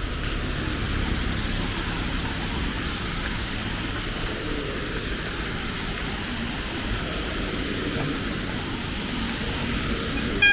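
Steady rain falling as an even hiss, with a low rumble underneath. A short sharp click comes near the end.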